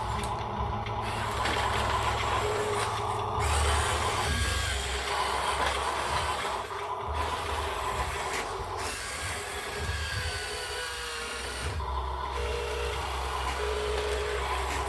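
Heavy vehicle engine running steadily, its low hum shifting in level, with a few sharp clicks.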